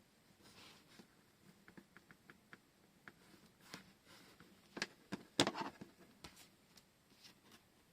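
Hands handling washi tape rolls and paper, making faint scattered clicks and soft rustles. About five seconds in comes a louder cluster of sharp clicks and rustling.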